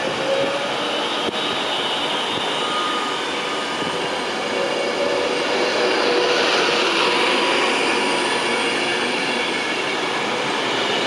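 Train moving along a station platform: a steady rumble and hiss of wheels on rail with a faint high whine, growing louder from about halfway through.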